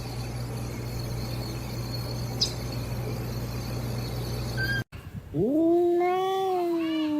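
A steady hum with a thin high whine, cut off abruptly about five seconds in. Then a cat's long drawn-out yowl begins, rising at first and then holding its pitch.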